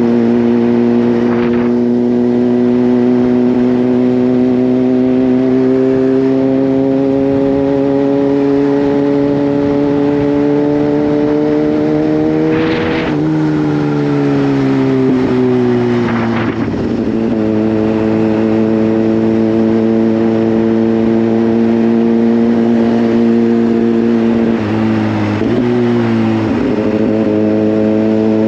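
Kawasaki Z H2's supercharged 998 cc inline-four running under light throttle, its note climbing slowly for the first half. About halfway through the revs drop, then the engine settles into a steady cruise over wind noise.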